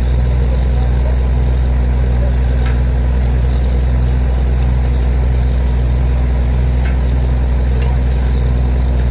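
Borewell drilling rig's engine running steadily under load, a deep unbroken drone with a few faint ticks.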